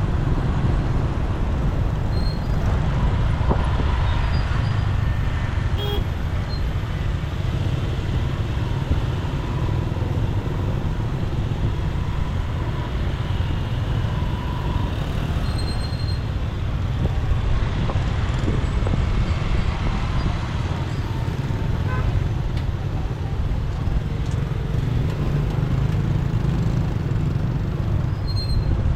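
Steady low rumble of a motorbike riding through city traffic, with the noise of surrounding vehicles and a few brief horn toots.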